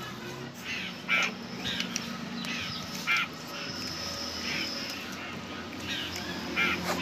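Birds calling repeatedly: short, harsh calls every half second to a second or so, about seven in all, the loudest about a second in and again about three seconds in, over a faint steady low hum.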